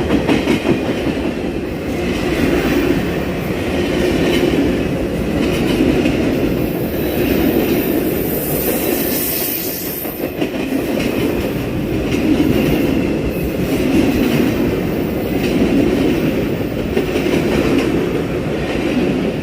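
Amtrak passenger train passing close by: a steady, loud rolling rumble of wheels on the rails that swells and dips every couple of seconds as the cars go by.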